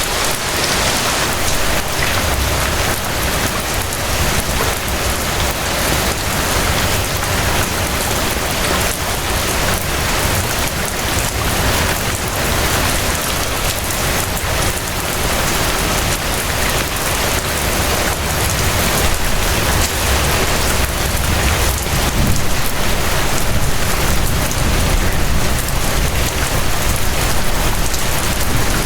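Steady rain falling and pattering on surfaces, a dense even hiss of drops with a low rumble underneath.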